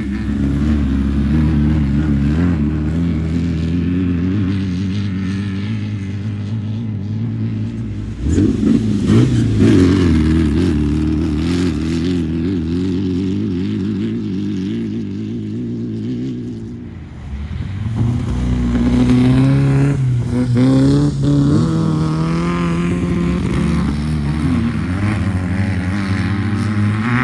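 Class 11 race car's air-cooled Volkswagen flat-four engine running under changing throttle. It surges louder about a third of the way in, drops back briefly, then revs up again with the pitch rising and wavering.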